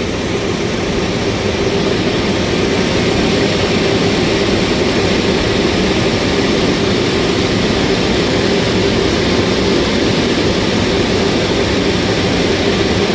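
Heavy diesel engine running steadily, a constant hum with a wide hiss over it.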